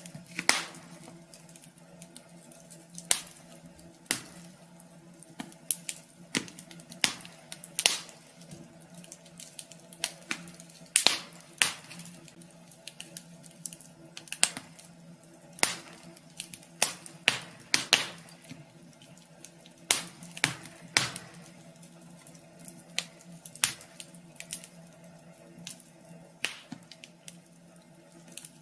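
Wood fire crackling in a wood stove: irregular sharp pops and snaps, one every second or so, over a steady low hum.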